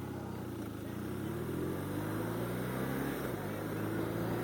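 BMW R1200RT boxer flat-twin motorcycle engine pulling away and accelerating, the pitch climbing, with a shift to the next gear about three seconds in.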